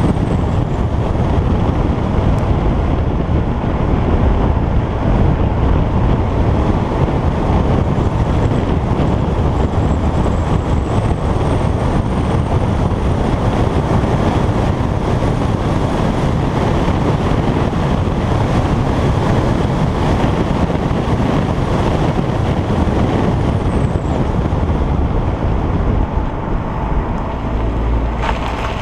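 Alfa Romeo Giulietta Quadrifoglio Verde's turbocharged 1750 TBi four-cylinder petrol engine pulling the car along, heard from an on-board action camera. The sound is steady, mixed with road noise and wind buffeting the microphone.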